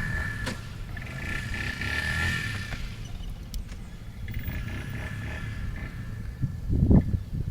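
Vehicle engine running some way off, with a high whine that comes and goes, as a truck stuck in soft sand is being tried, without success, to be pulled out. A loud low thump comes near the end.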